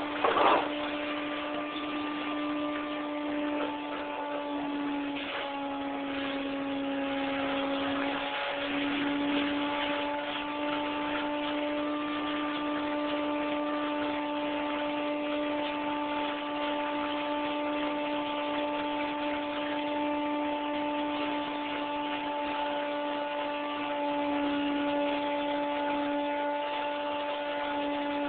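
A motor-driven machine running steadily, giving a constant hum with a held tone and overtones that drift slightly in pitch. A brief loud knock comes about half a second in.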